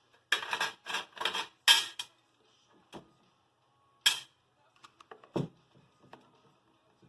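Handling noises from working on small parts and tools: a quick run of rustling, scraping bursts, then separate sharp clicks and a dull knock a little after the middle.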